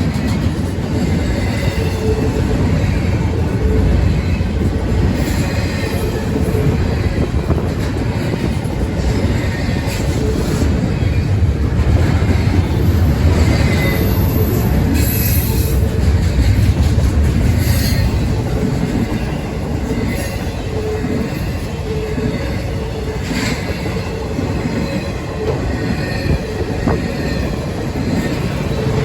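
Freight train cars rolling past: a steady heavy rumble with wheel clatter and faint squeals that come and go.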